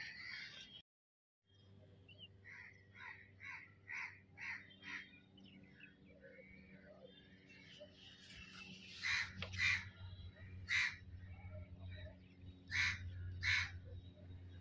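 Birds calling: a run of short repeated calls, about two a second, then several louder single calls in the second half.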